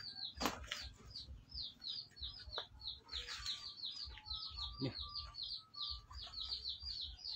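Small birds chirping: a rapid, unbroken run of short, high chirps that fall in pitch, about four or five a second, with a few short, steadier, lower notes in between.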